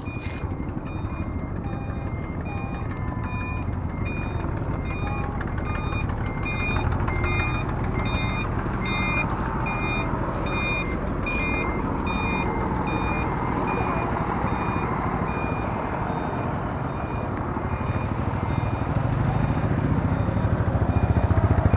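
A delivery truck's reversing alarm beeping at one steady pitch, about two beeps a second, over the low rumble of its running engine. The beeps fade out about halfway through, and the engine grows louder near the end.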